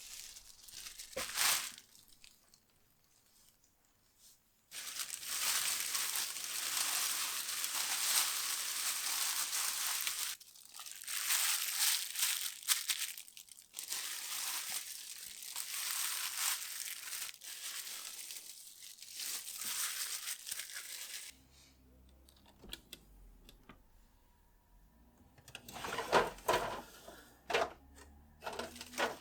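Plastic shopping bags rustling and crinkling in long stretches as groceries are unpacked, with a few sharp knocks near the end as items are set down.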